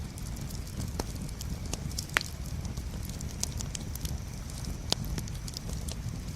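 Wood campfire burning: a steady low rumble of flame with scattered sharp pops and fine crackles. The loudest pop comes about two seconds in, with others about a second in and near five seconds.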